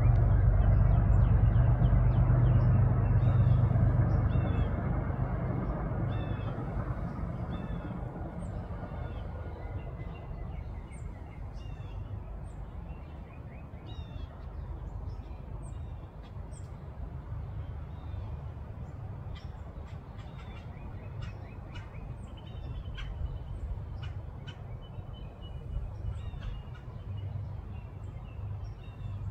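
Small birds chirping, short high notes repeated about once a second, over a low rumble that fades away during the first several seconds.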